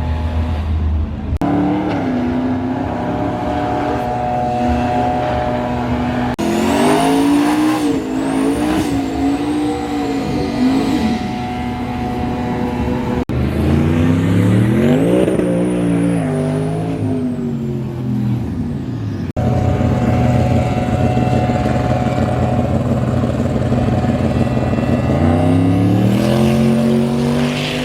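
Truck engines at a drag strip running and revving, broken by abrupt cuts between clips. Engine pitch climbs steeply as a truck accelerates away, once about halfway through and again near the end.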